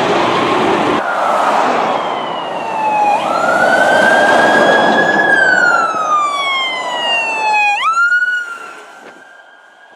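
Fire truck's electronic siren wailing in slow rising and falling sweeps over a loud rush of engine and road noise as the truck passes, fading sharply about eight and a half seconds in.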